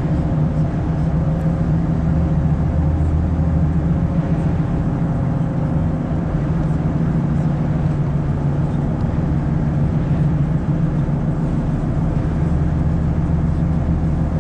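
A car driving at a steady speed, heard from inside the cabin: a steady low hum of engine and road noise.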